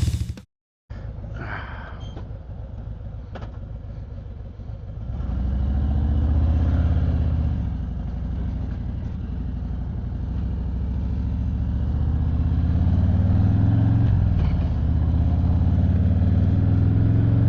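Harley-Davidson Street Glide Special's V-twin engine running, quieter at first and then louder from about five seconds in, its note rising and falling a few times.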